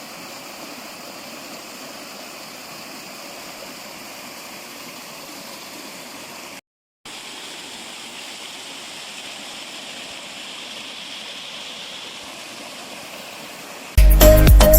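Steady rush of flowing water from a mountain stream, broken by a brief cut to silence about seven seconds in.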